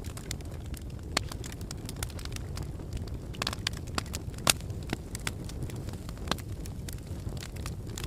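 Wood fire burning in a fireplace: a steady low rumble of the flames with irregular sharp crackles and pops, two louder pops about a second in and near the middle.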